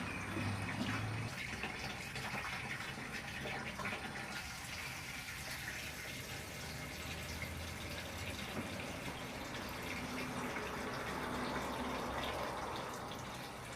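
Water running steadily, a continuous rushing and splashing.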